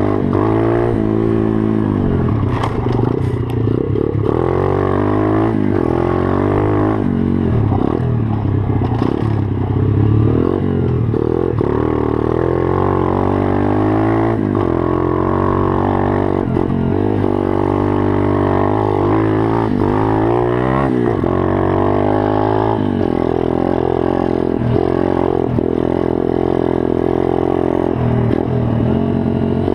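Pit bike engine running and revving up and down repeatedly as the bike is ridden, with a few sharp clatters along the way.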